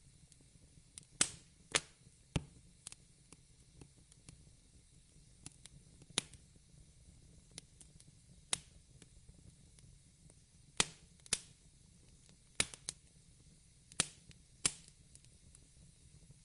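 Fire crackling: irregular sharp pops, some in quick pairs, over a faint steady low hum.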